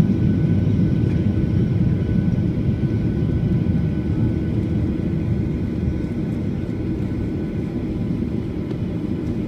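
A steady low rumble that eases off slightly over the seconds.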